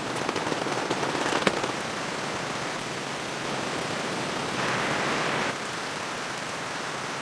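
Steady rain falling, with sharp ticks of drops landing close by in the first second and a half. The hiss swells louder for about a second past the middle, then settles back.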